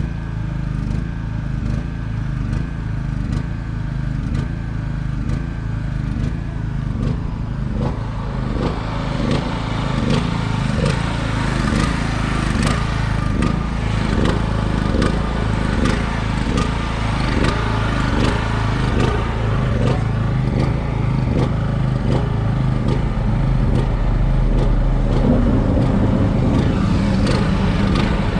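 Diesel engine running unevenly on diesel fuel that has frozen, not responding to the throttle. It is a steady low run at first, then from about eight seconds in it pulses a little under twice a second.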